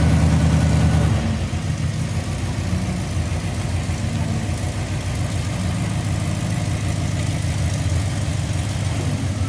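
Vehicle engine running steadily at low revs. It is a little louder for about the first second, then settles.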